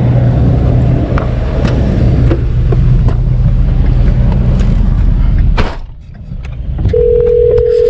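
A motor vehicle's engine running close by as a steady low hum under roadside traffic noise. The noise eases off briefly about six seconds in. Near the end a steady single-pitched tone sounds for about a second.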